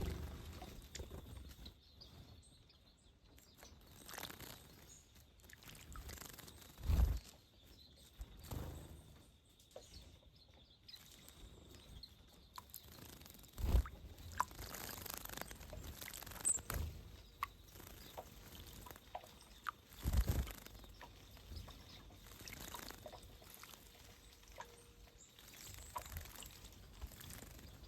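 Small wild birds bathing in a shallow birdbath: short, scattered bursts of water splashing with a few faint bird calls. A few dull low thumps stand out about a quarter, half and two-thirds of the way through.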